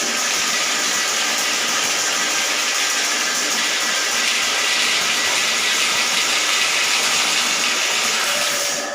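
Water rushing into a toilet: a loud, steady hiss that goes on without a break.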